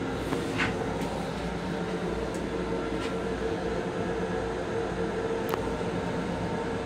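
Running noise of a Metro-North M7 railcar heard from inside its small restroom: a steady low rumble with a constant hum, and a few faint clicks or rattles about a second in, around three seconds in and near the end.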